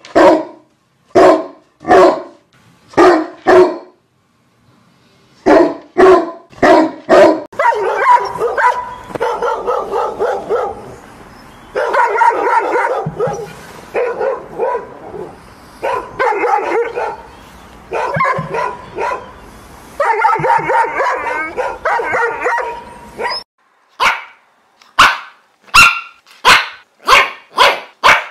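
Dogs barking. First come separate barks about one a second. From about eight seconds in, a long stretch of rapid, almost continuous barking follows, and it gives way near the end to sharp barks about two a second.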